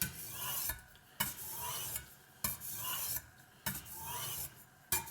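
Kitchen knife blade stroked under moderate pressure across a wet Spyderco medium-grit aluminium oxide ceramic bench stone: a scraping hiss on each pass, about one stroke every 1.2 seconds, four in a row.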